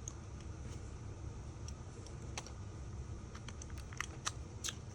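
Small, sharp clicks and taps of precision repair tools on an iPhone 5's screws and metal bracket, sparse at first and coming more often in the last second and a half, over a low steady hum.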